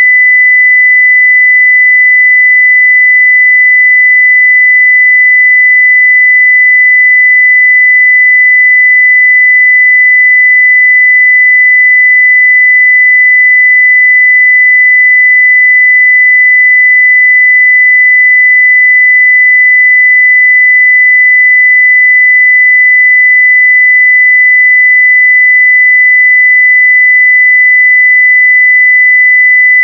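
A 2 kHz sine-wave audio test tone at full scale (0 dB), a single pure pitch held steady and unchanging.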